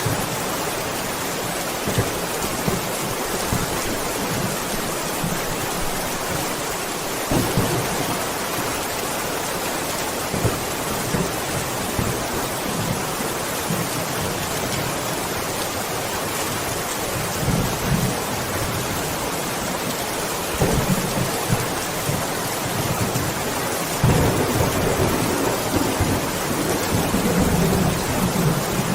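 Steady rain falling, with thunder rumbling several times in the distance; the longest roll of thunder comes near the end.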